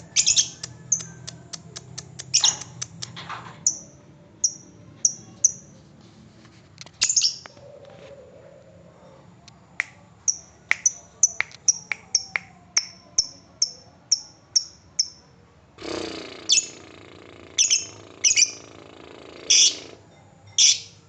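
Lovebird 'ngetik' ticking call: runs of short, sharp, high chirps, often about two a second, broken by louder shrill squawks. This is the call keepers play as bait to set other lovebirds off into their long 'ngekek' trill.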